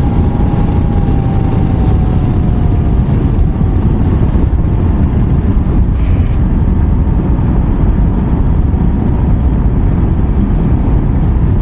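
Honda CRF300L Rally single-cylinder motorcycle ridden at speed: a steady heavy rush of wind and road noise over the engine. A faint whine sinks slightly in pitch in the first few seconds.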